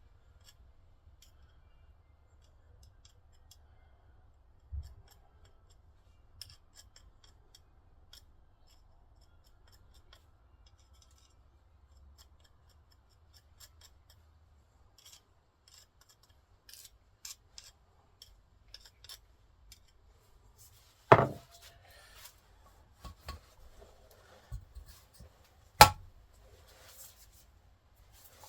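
Sparse light scraping and clicking of hand work on engine parts, with two sharp knocks: one about two-thirds of the way through and another near the end.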